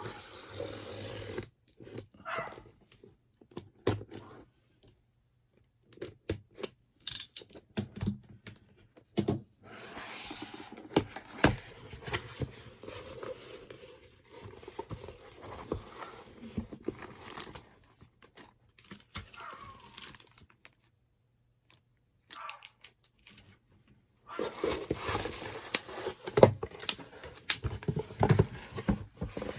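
Stop-start handling noise from unpacking the fire pit: packaging being torn and crinkled, with scrapes, clicks and knocks, and short silent pauses between bouts.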